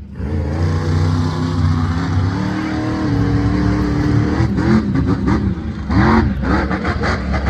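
Monster truck engine revving: held at a steady high pitch for a few seconds, then blipped repeatedly near the end, the pitch rising and falling with each blip.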